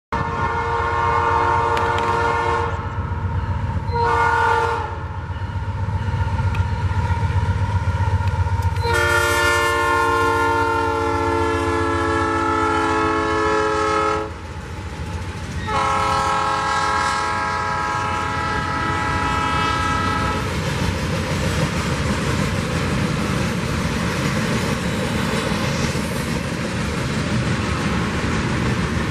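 CPKC train's locomotive horn sounding four blasts over a steady low rumble: a blast of about three seconds, a short one, then two long ones of about five seconds each. After the last blast, about twenty seconds in, the horn stops and the rolling rumble and clatter of the passing train carry on.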